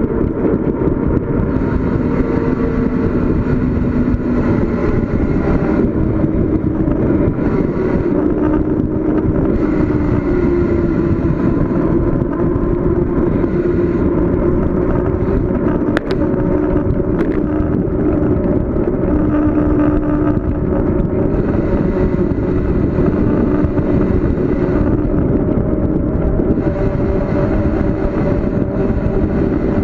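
Steady wind rush on the microphone during a fast downhill bicycle ride, heaviest in the low end, with a faint hum that drifts slowly in pitch. There is one sharp click about sixteen seconds in.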